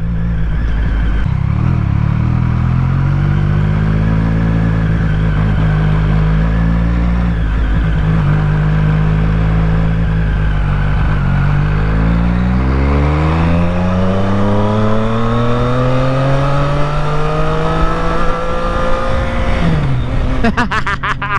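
Triumph Street Triple 765's inline three-cylinder engine running at a steady, low pitch for about twelve seconds. It then revs up in a long rising sweep as the bike accelerates hard, and the pitch drops suddenly near the end.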